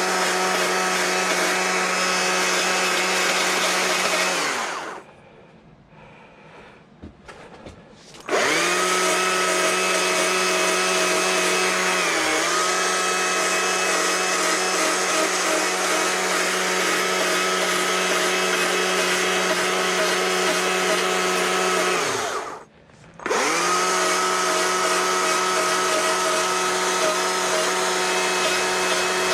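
A handheld electric power tool's motor whining at a steady high speed. It is switched off about four seconds in and restarts a few seconds later with a quick spin-up. It is briefly dragged down once, then cut off and started again near the end.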